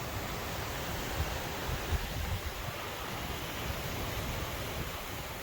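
Gusty wind blowing as a steady rush, with irregular low bumps of wind buffeting the microphone.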